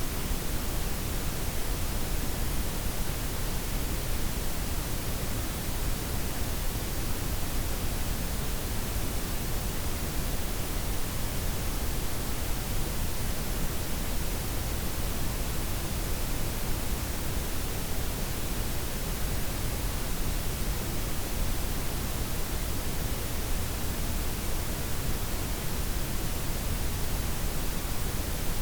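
Steady synthetic noise blend of white, pink and brown noise layered together: an even, unchanging hiss with a deep rumble underneath and the highs softened.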